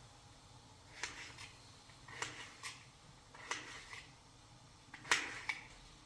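A handful of short, sharp clicks and knocks, irregularly spaced, some in quick pairs, the loudest a little after five seconds in.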